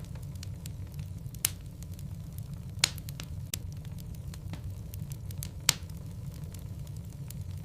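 Wood fire of burning logs crackling, with a steady low rumble of flame under frequent small snaps. Sharper pops stand out about one and a half, three and six seconds in.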